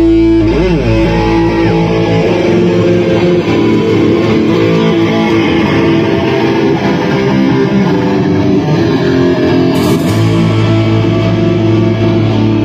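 A metal band playing live, with sustained distorted electric-guitar chords. A guitar note is bent up and down about half a second in, and a heavy low bass note enters about ten seconds in.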